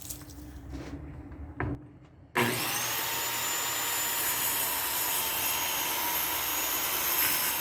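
An electric power saw starts about two seconds in and runs steadily at full speed with a high motor whine for about five seconds, cutting a sheet of plywood down to width. Before it there is light handling noise and a single knock.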